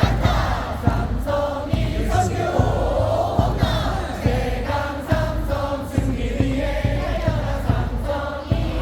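Baseball stadium crowd singing a cheering song in unison over a steady drum beat.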